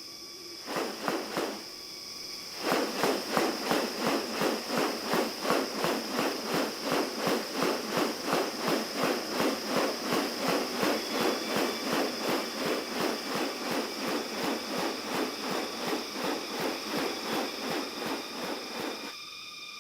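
Rainforest insects shrilling in a steady high tone, under a regular rhythmic sound about twice a second that starts a few seconds in and stops just before the end.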